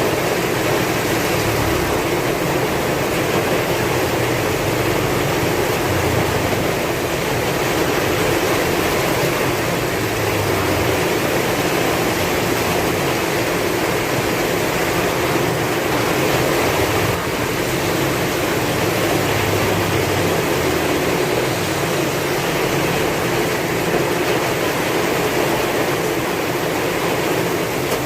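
Heavy rain falling with strong wind: a dense, steady hiss with a soft low rumble underneath that swells now and then.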